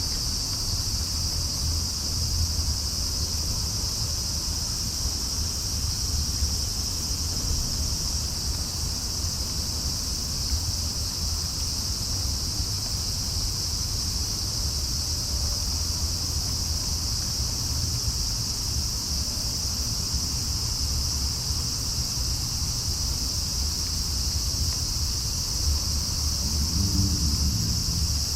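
Steady high-pitched chirring of night insects, unbroken throughout, over a low, steady rumble.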